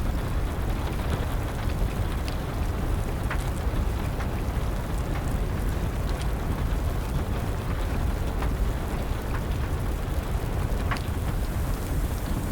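Wood fire crackling, with occasional sharp pops, over a steady patter of rain and a low rumble.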